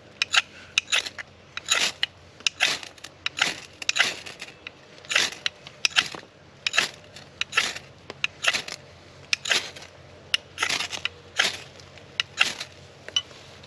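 Short, sharp strokes, irregular at one or two a second, from hands working the tinder and fat wood of a campfire being lit.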